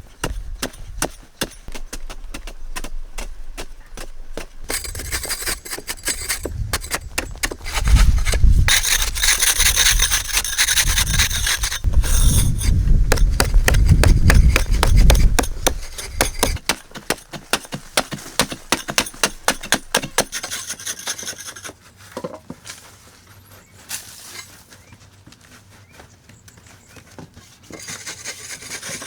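Rapid repeated scraping strokes of a hand tool working wood, heaviest through the middle and fainter near the end.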